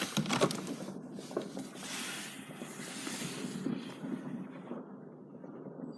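New Year fireworks going off at a distance: a few sharp bangs right at the start, then a low continuous rumble with a stretch of hissing crackle about two seconds in.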